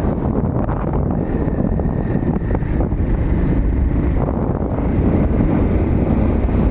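Wind buffeting the microphone of a moving motorcycle, with the engine running steadily underneath.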